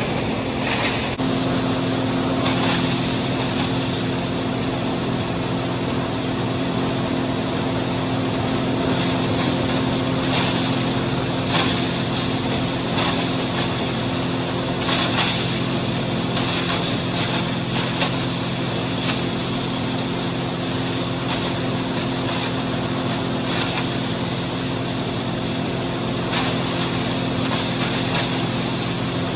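John Deere 4230 six-cylinder diesel tractor running steadily under load, driving a New Holland 355 grinder-mixer's hammermill as it grinds corn, with irregular crackles over the steady drone.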